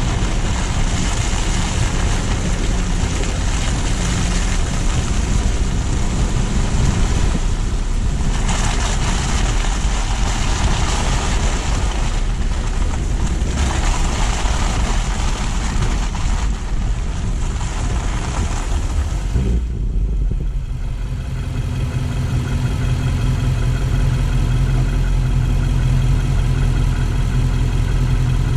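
A car driving on a city street: steady tyre hiss and road noise over the engine's hum. About two-thirds of the way through the hiss dies away as the car slows to a stop, leaving only the steady low drone of the idling engine.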